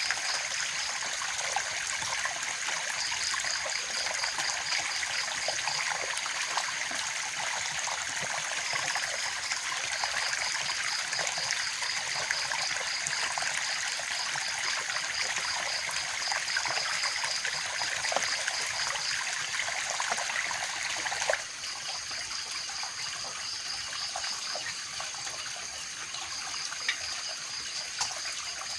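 Steady rushing water, with a high, rapidly pulsing trill that starts and stops several times over it. The whole sound drops suddenly to a lower level about two-thirds of the way through.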